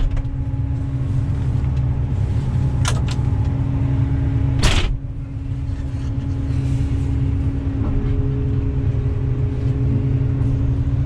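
A 45-tonne Volvo crawler excavator's diesel engine running steadily, heard from inside the cab. There are two sharp knocks, about three and about four and a half seconds in, and the engine sound dips briefly just after the second.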